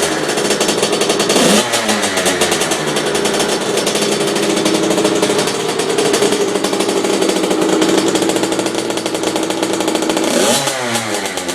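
2008 Kawasaki KX65's 65cc two-stroke single-cylinder engine running just after starting. It is blipped up and back down about a second and a half in, held at a steady fast rev for several seconds, then blipped again near the end.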